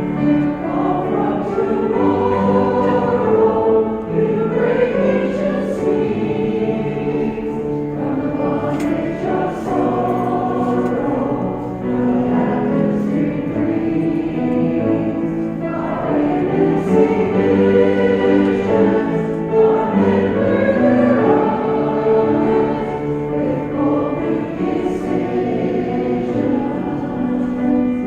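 A group of voices singing a hymn together with keyboard accompaniment, in long, held phrases.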